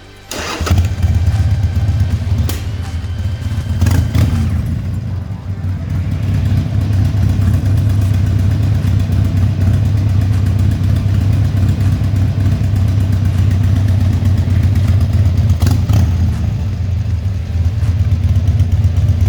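Harley-Davidson Sportster's V-twin engine running loud under way. It comes in suddenly just after the start, eases off briefly around five seconds in, then pulls steadily.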